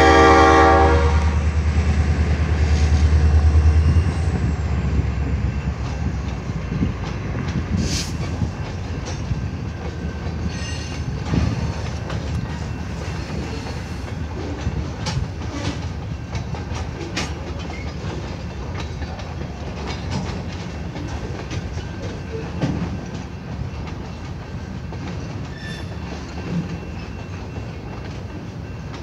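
A diesel freight train passes a grade crossing. A locomotive horn blast dies away about a second in and the locomotive's engine rumbles past over the first few seconds. Then a long string of freight cars rolls by with a steady rumble and clacking wheels.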